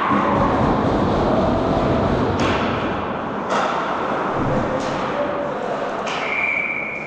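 Ice hockey play in an arena: a steady rink noise broken by four sharp knocks of puck, sticks and boards, a second or so apart. A short high steady tone sounds near the end.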